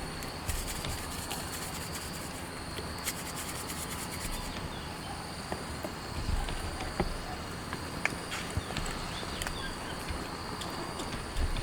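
Steady outdoor nature ambience: a high, even insect drone over a soft hiss, with scattered light ticks and taps.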